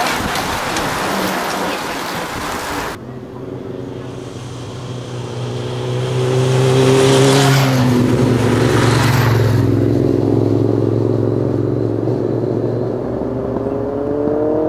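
Rushing hiss of a bunch of racing bicycles passing close, cut off abruptly about three seconds in. Then a race convoy car's engine running steadily as it approaches and passes close by, its pitch rising near the end as it accelerates.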